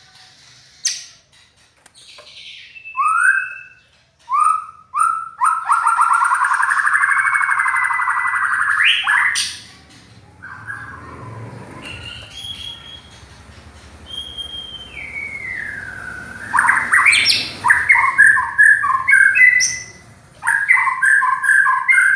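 White-rumped shama (murai batu) singing a varied, harsh-voiced song: whistled notes and pitch slides, a long rasping phrase of about four seconds, then quick repeated two-note phrases near the end.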